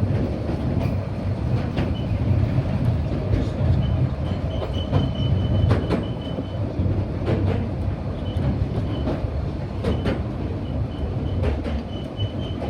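Narrow gauge passenger train running along the track, heard from on board: a steady rumble with irregular clicks from the wheels over rail joints. A thin, high wheel squeal comes and goes, longest about five seconds in.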